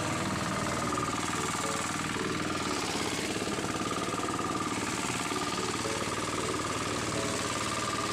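Hand tractor engine running steadily under load with a rapid, even chugging while plowing a rice paddy.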